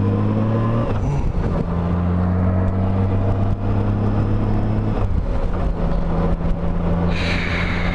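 2012 Honda Goldwing's flat-six engine running at road speed, heard from inside a full-face helmet; the engine note changes pitch about one and five seconds in. A higher rushing sound swells in near the end.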